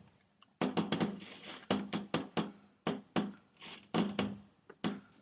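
Fireworks going off: an irregular run of sharp bangs and cracks, several each second, each with a short ringing tail.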